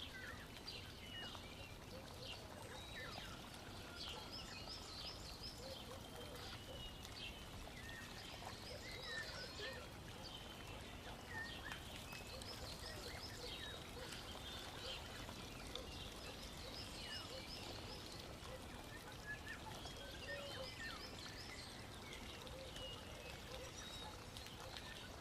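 Faint birdsong: many short, high chirps and trills repeating over a soft, steady hiss.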